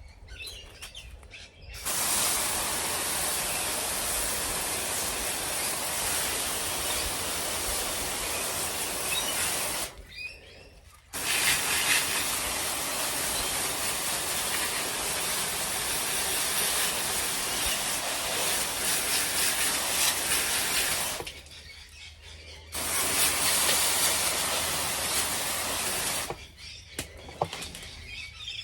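Water spraying in three long, steady hissing bursts with short pauses between, rinsing air-conditioner covers and an outdoor unit.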